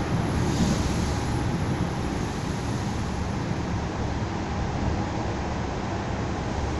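Suburban electric train (elektrichka) running along the track, heard from inside the carriage as a steady low rumble of wheels and running gear. There is a brief hiss about half a second in.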